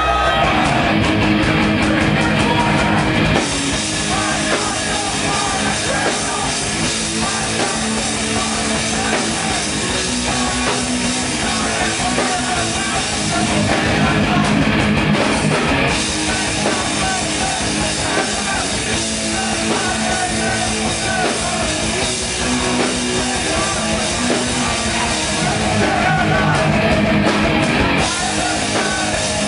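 A hardcore punk band playing loud and live, with heavily distorted electric guitars, bass and a pounding drum kit. The full band crashes in right at the start, out of a sustained ringing guitar note.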